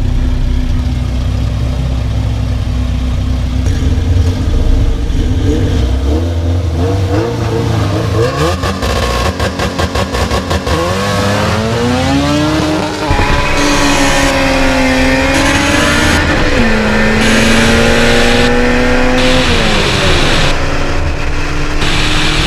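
Nitrous-injected drag car engines at the start line: a low idle rumble, then rapid stuttering revs before the launch. Then one engine at full throttle climbs in pitch and drops back at each upshift, about three times, as the car accelerates down the road.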